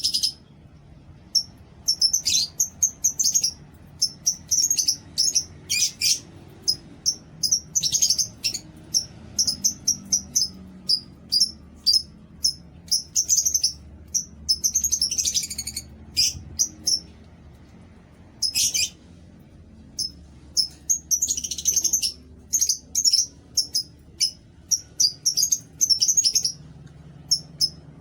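Pet lovebirds chirping: rapid, shrill, high-pitched chirps coming in irregular runs with short pauses between.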